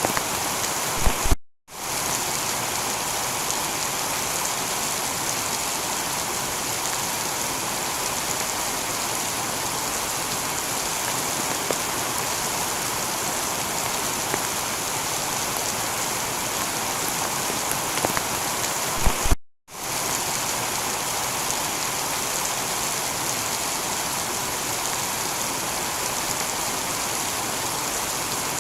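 Steady heavy rain falling on a tiled roof, an even hiss of drops. The sound cuts out for a moment twice, about a second and a half in and again about 19 seconds in, each time just after a short low thump.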